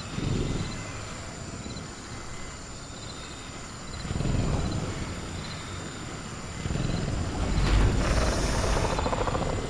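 Velociraptor creature sound effect: low rumbling growls that swell about four seconds in and again from about seven seconds on, the second with a brief harsher burst near its start. Under them runs a faint, steady cricket chirping.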